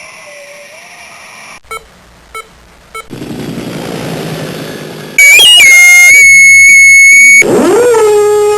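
A run of separate short comedy sound effects: a held tone, three quick beeps, a burst of hissing noise, then a loud warbling electronic tone and a tone that swoops up and then holds steady.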